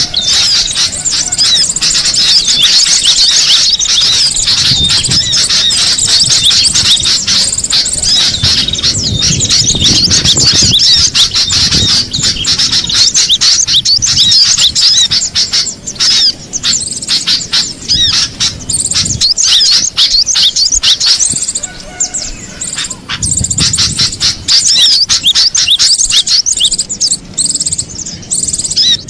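Cinereous tit (gelatik batu) calling, a dense run of quick high chirps and squeaky notes with almost no pauses, thinning briefly about two-thirds of the way through.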